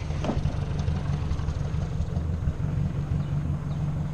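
Ford 600 tractor's four-cylinder engine running at a steady speed.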